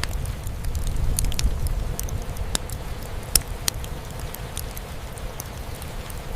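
Wood fire crackling, with irregular sharp pops, the loudest about three and a half seconds in, over a steady low rumble of rain on the roof.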